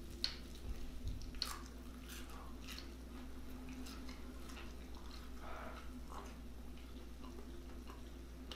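Soft, close chewing and wet mouth sounds of someone eating a hot vegetable egg roll, with scattered small clicks, over a faint steady hum.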